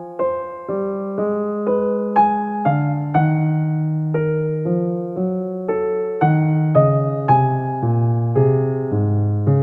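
Background music: a piano playing a slow, gentle melody in even notes, about two a second.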